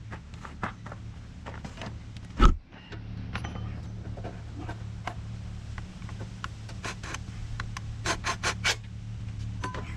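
Hands-on workshop work noises: scattered metal clicks and knocks over a steady low hum, with one loud thump about two and a half seconds in and a quick run of four sharper knocks near the end.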